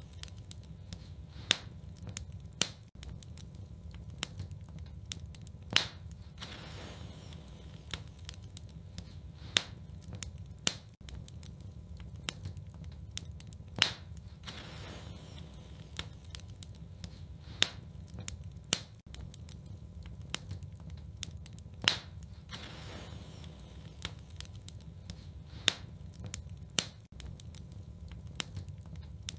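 Wood fire burning in a fireplace, crackling, with a sharp pop every few seconds and smaller ticks between them over a steady low rumble of flame.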